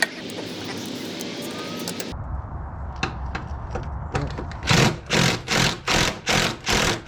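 A power tool, likely an impact wrench, is run in a string of short bursts, about three a second, as a bolt is worked loose. Before that there is a steady hiss that cuts off suddenly about two seconds in, followed by a few light clicks.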